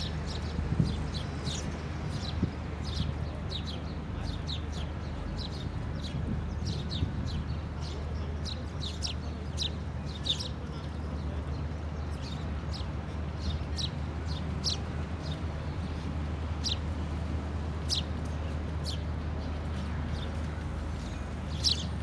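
Birds chirping: many short, high, quickly falling chirps, irregular and frequent, over a steady low hum.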